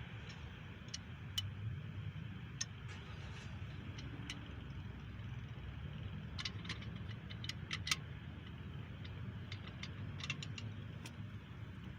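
Light metallic clicks and clinks of cam bearing tool pieces being handled and fitted in a small block Chevy engine block, scattered at an uneven pace with a busier cluster about six to eight seconds in, over a low steady hum.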